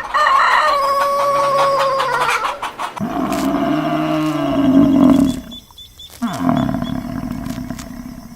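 A rooster's crow trails off in the first two seconds, then a large animal gives two long, low calls, the first one loudest.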